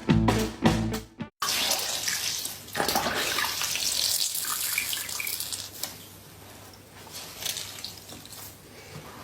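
About a second of background music with a plucked beat, cut off suddenly, then water running, as from a tap into a sink: a steady rush that is loud for a few seconds and then quieter, with a few small knocks.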